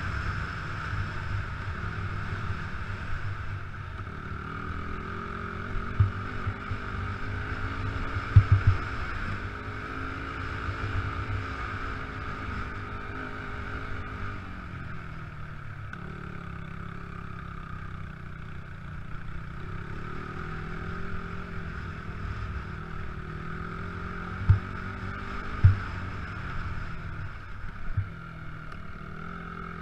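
Motocross bike engines running on a dirt track, the pitch rising and falling as the throttle opens and closes. A few short, loud low thumps stand out.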